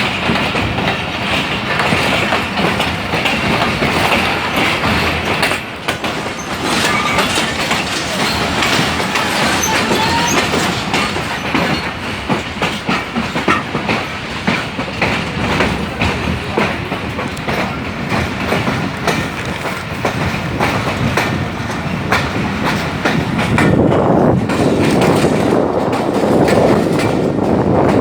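Lasani Express passenger train running on the track, its wheels clattering steadily over the rail joints with a continuous rumble. Near the end the sound turns deeper and louder.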